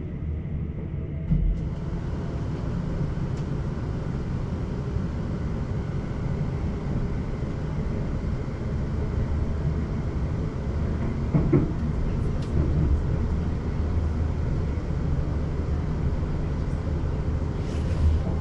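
Electric passenger train running along the line, heard from inside the carriage: a steady low rumble of wheels on rails, with a couple of brief knocks.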